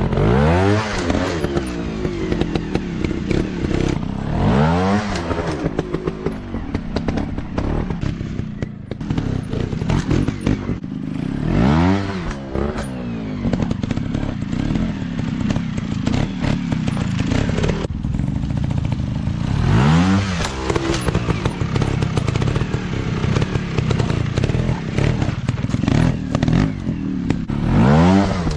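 150cc dirt bike engine revving up sharply again and again, every four to eight seconds, and running at a steadier pitch in between.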